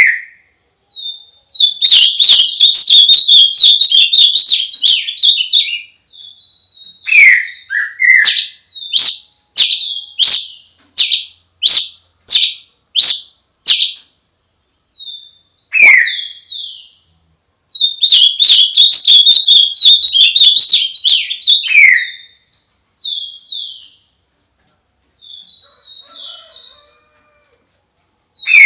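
A songbird singing close and loud: phrases of rapid high chirps and trills a few seconds long, broken by single sharp notes and short silent pauses.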